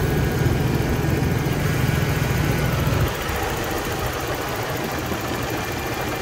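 Toyota 3.0-litre V6 engine idling steadily while a vacuum hose is off during a vacuum-leak repair. A heavier low rumble drops away suddenly about three seconds in, and the engine runs on more quietly.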